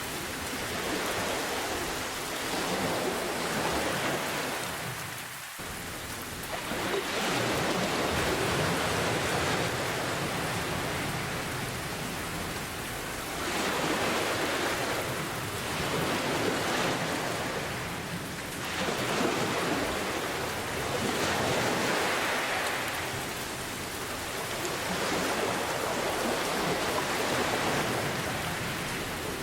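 Steady rain hiss mixed with ocean waves that swell and recede every few seconds.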